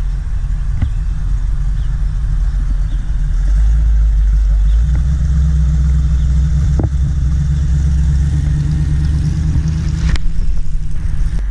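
A car engine rumbling close by as it rolls slowly at low revs, getting louder about three and a half seconds in and dropping away at the very end.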